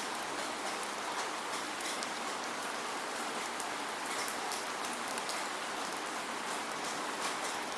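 Steady rain with no thunder, a dense hiss with many fine drop ticks pattering on a surface.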